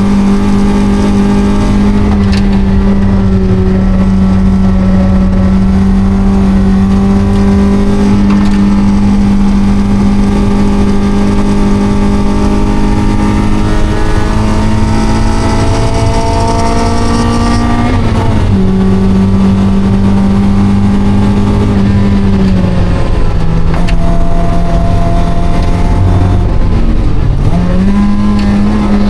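Mazda NB Miata's 1.8-litre four-cylinder engine running hard at high revs on track. Its note climbs slowly, drops sharply about eighteen seconds in, steps lower again a few seconds later, and dips and climbs back near the end.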